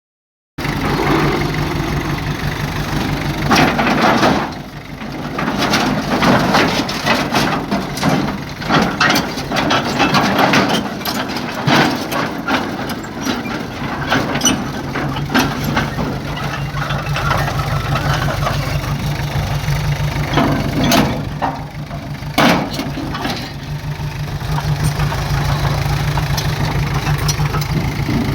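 Heavy diesel earth-moving machinery running with a steady engine drone, overlaid with frequent sharp knocks and clanks of metal and earth. The sound cuts in abruptly about half a second in.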